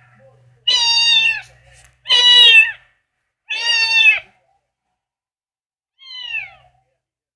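Domestic cat meowing four times, each call under a second long and falling slightly in pitch, the last one fainter.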